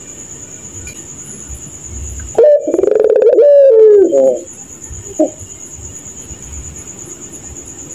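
Puter pelung dove (Barbary dove) giving one loud, laughing, wavering coo of about two seconds, starting about two and a half seconds in, then a short single note about a second later. A steady high-pitched trill runs behind.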